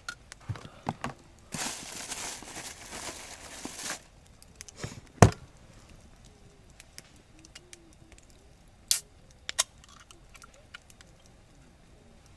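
Handling noises: a few clicks, then about two seconds of rustling, a single sharp knock about five seconds in, and a couple of sharper clicks later.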